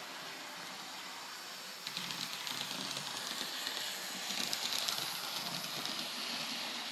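A train letting off a hiss of steam that starts about two seconds in, grows loudest around the middle with a fine rapid ticking in it, then eases off.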